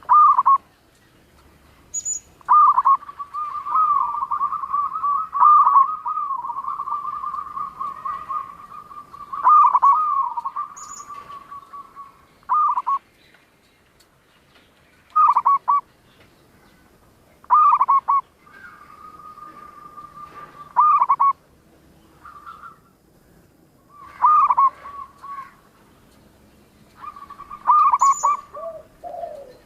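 Zebra dove (perkutut) cooing: rapid, rolling trilled coos at one steady pitch. A long trill runs for several seconds near the start, then shorter phrases come after pauses of a second or two.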